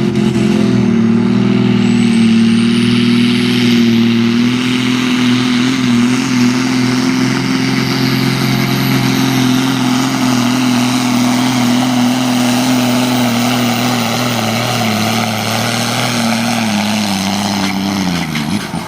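Ursus tractor's diesel engine pulling under heavy load, running steadily at high revs, with a high whine rising over the first few seconds. Near the end the revs drop away as the engine comes off load.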